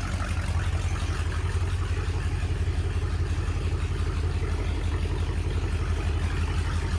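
A 1969 Chrysler Newport's 383 V8 idling steadily with an even low rumble.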